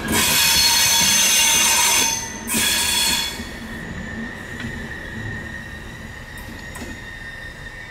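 Wheels of a PESA Link railcar squealing on curved track. Several high-pitched tones sound at once, loud at first with a brief break about two seconds in, then after about three seconds they die down to a fainter, steady single squeal.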